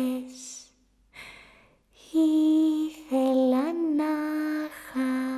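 A woman's voice singing a slow, lullaby-like tune in long held notes, with breaths between the phrases.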